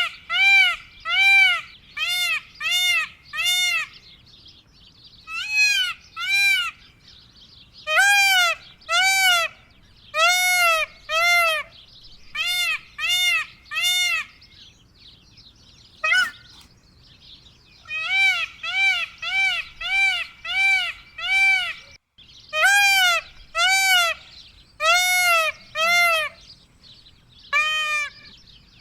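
Indian peafowl calling: loud, short, ringing notes repeated in bouts of two to six, each note rising and falling in pitch, with pauses between bouts.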